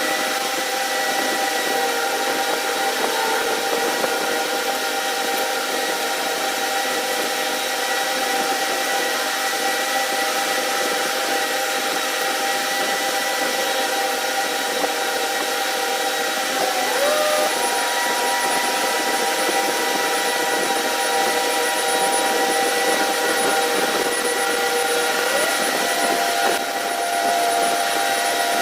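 A machine running steadily: a broad hiss with several steady whining tones, some of which shift to a new pitch now and then.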